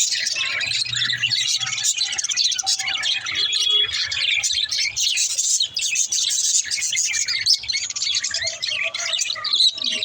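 Many small birds chirping and chattering at once, a dense overlapping chorus of short high calls that keeps going without a break.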